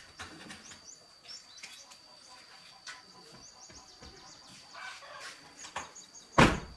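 Small birds chirping in short high calls, with scattered light clicks and a faint steady high tone behind them. A single loud thump comes near the end.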